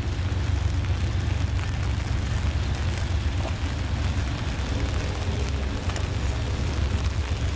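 Heavy rain hissing steadily, with a constant low rumble of wind buffeting the microphone.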